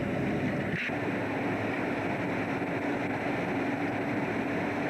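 Steady running noise of a fishing boat's engine, with a short knock about a second in, after which a steady hum holds.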